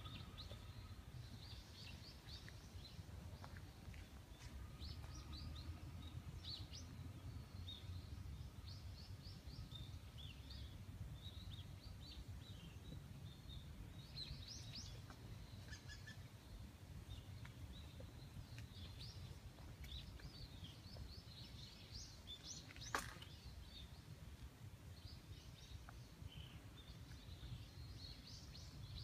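Small birds chirping in many quick, short, high calls, faint over a low steady rumble. A single sharp click about three-quarters of the way through.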